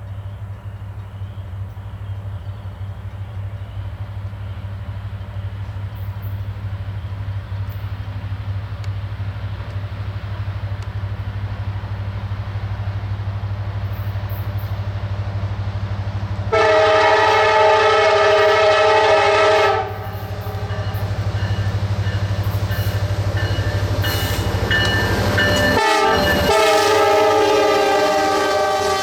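SD70MAC diesel-electric locomotives of a coal train approaching with a steady low rumble that slowly grows louder. About two-thirds of the way in the locomotive's multi-note air horn sounds one long blast, then after a short gap a second long blast that runs on, briefly broken near the end.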